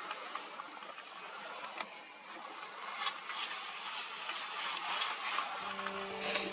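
Quiet outdoor hiss with faint rustling and a few light clicks. Background music with held notes starts about five and a half seconds in.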